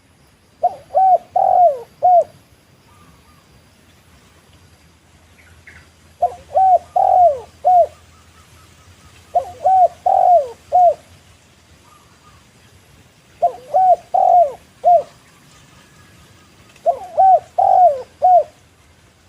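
Spotted dove (tekukur) cooing: five phrases, each of four short coos, repeated about every three to four seconds.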